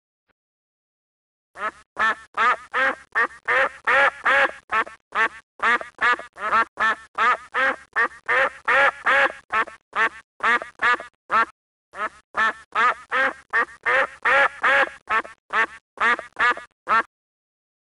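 Mallard duck quacking: a long, regular run of short quacks, about two or three a second, starting about a second and a half in, with one brief pause partway through.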